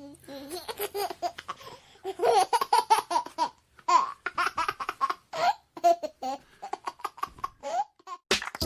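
A baby laughing in many short, high-pitched bursts of giggling and babbling.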